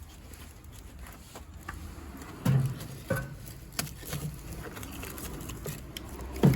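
Wood fire in a wood-burning stove crackling, with scattered sharp pops over a steady low rumble and two louder thuds, about two and a half seconds in and near the end.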